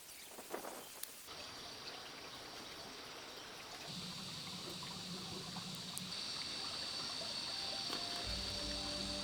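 Water trickling as a steady hiss, with a few light clicks in the first second. Background music comes in near the end.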